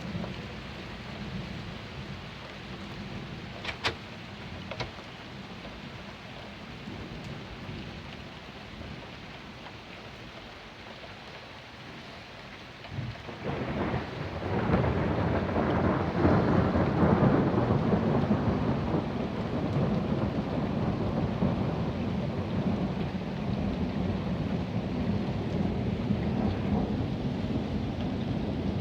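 Steady rain during a thunderstorm, with two sharp clicks about four seconds in. About halfway through, a long roll of thunder builds and keeps rumbling.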